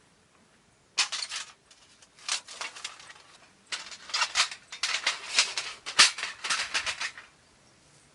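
Bursts of crisp rustling and clicking from camp gear being handled. They come in clusters: a short one about a second in, another around two to three seconds, and a long busy stretch from about four to seven seconds.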